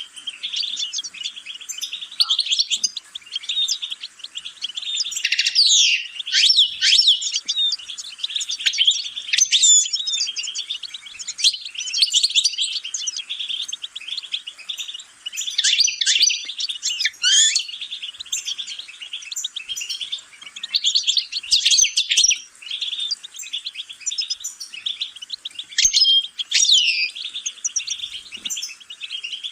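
European goldfinch singing a long, continuous song of rapid twittering notes and quick trills that sweep up and down, with only short breaks.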